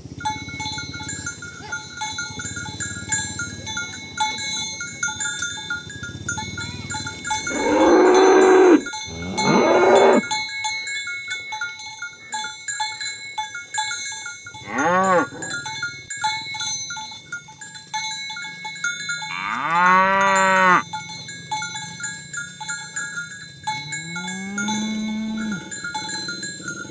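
Cattle mooing: about five separate moos, two long loud ones about a third and three-quarters of the way in and a shorter rising one near the end, over a steady jingle of cow bells from the walking herd.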